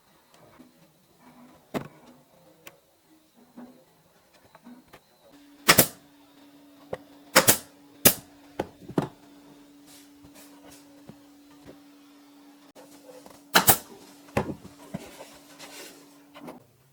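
Several sharp knocks at irregular intervals, the loudest about six seconds in and again near fourteen seconds, over a steady low hum that starts about five seconds in and stops near the end.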